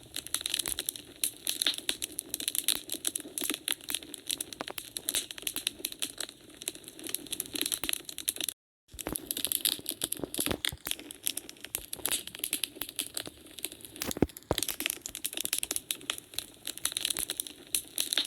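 Wood fire crackling in a fireplace: a dense, irregular stream of small pops and snaps, with a few sharper, louder cracks now and then. The sound cuts out completely for a fraction of a second just after halfway.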